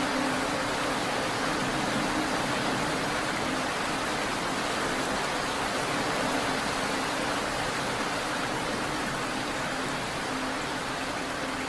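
Steady rain falling, an even hiss without separate drops or thunder, over a faint low hum.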